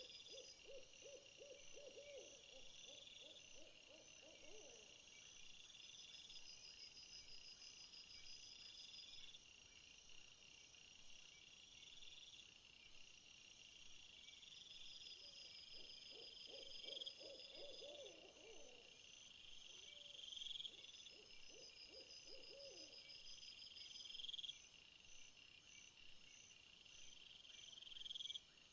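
Faint night-time insect chorus of steady, repeating high chirps, with a low pulsing trill heard twice: once at the start for about five seconds, and again from about fifteen seconds in for several seconds.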